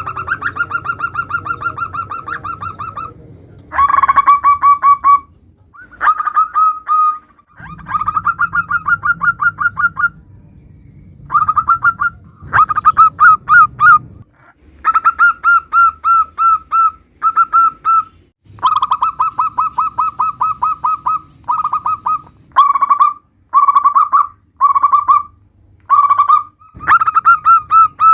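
Zebra doves (perkutut) calling: rapid strings of pulsed cooing notes in phrases of one to three seconds, repeated again and again with short pauses between them.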